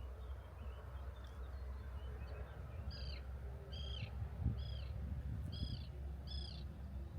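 A bird calling: a series of about five short, arched notes, roughly one every 0.7 seconds, starting about three seconds in. A steady low rumble runs underneath.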